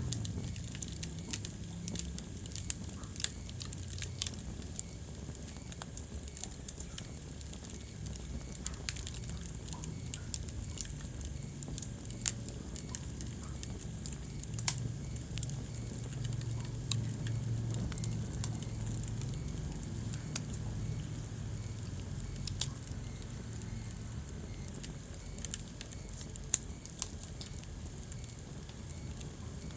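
Wood fire crackling in a fireplace: irregular sharp snaps and pops, a few of them louder, over a low steady rumble.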